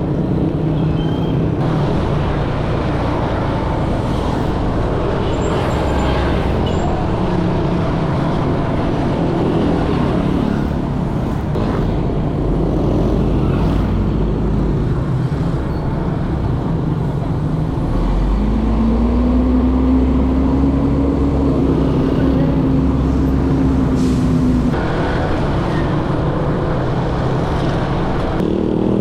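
Motorcycle riding in dense street traffic: its engine runs under a steady rumble of many surrounding motorbikes. About two-thirds of the way through, an engine tone climbs in pitch, holds for several seconds, then drops away.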